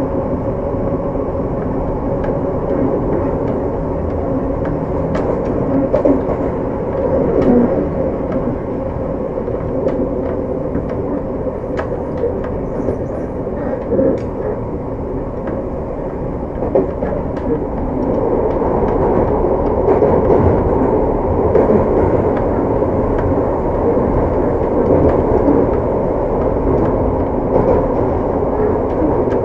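Seibu 6000 series commuter train car (Mitsubishi full-SiC VVVF inverter) running at speed, heard from inside: a steady rumble of wheels on rail with occasional sharp clicks, growing louder from about 18 seconds in.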